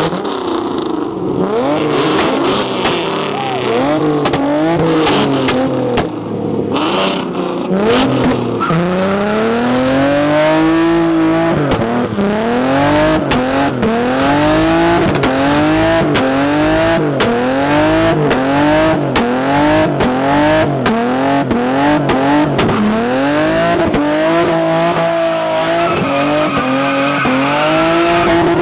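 Car engine revved hard over and over, its pitch climbing and dropping about once a second, with sharp cracks between the revs.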